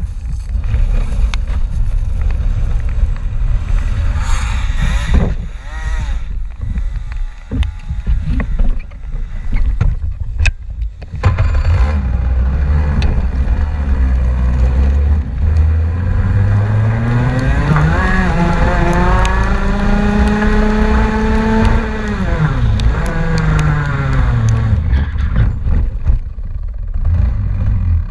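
Heavy wind rumble on the microphone, then a car engine accelerating hard, its pitch climbing steadily for several seconds, holding briefly, then falling away as it lifts off and fades.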